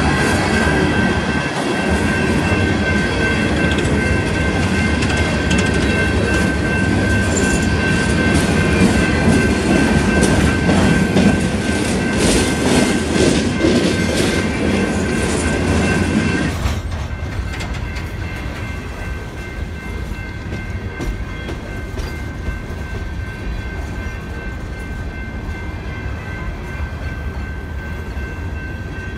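Empty coal hopper cars of a freight train rolling past, wheels clicking over the rail joints, with steady high-pitched ringing tones running over the rumble. About halfway through, the rolling noise drops abruptly and stays quieter.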